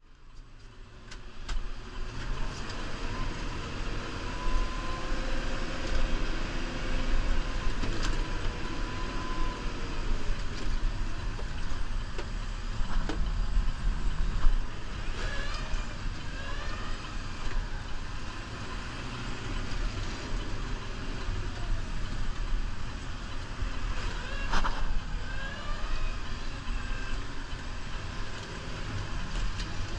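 New Holland Powerstar 75 tractor's diesel engine running steadily with a deep rumble. A few sharp clunks and short whines that glide up and down in pitch come about halfway through and again later.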